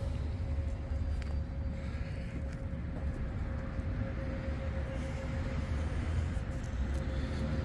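The Trailblazer SS's 408 stroker V8, built on an LQ9 iron block with long-tube headers, idling with a steady low exhaust rumble and a faint constant hum above it.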